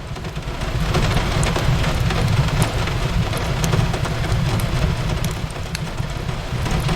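Steady rain hiss over a deep rumble, with scattered sharp crackles and pops from a wood fire.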